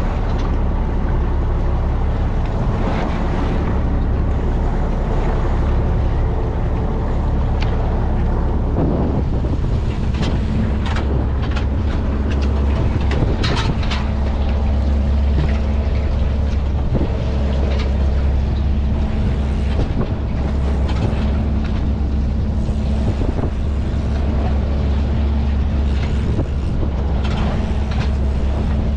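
A fishing boat's engine running steadily with a deep, even drone, and a faint steady tone joining about nine seconds in. Scattered short knocks and some wind on the microphone sound over it.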